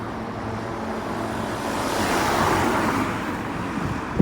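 Road traffic noise, with a vehicle passing close by: the noise rises to a peak midway and then fades.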